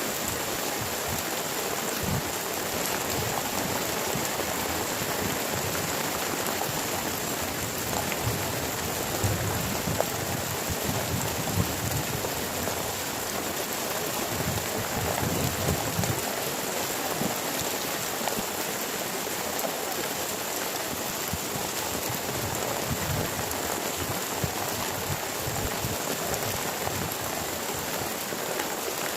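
Heavy rain falling steadily, an even hiss of drops with scattered low knocks.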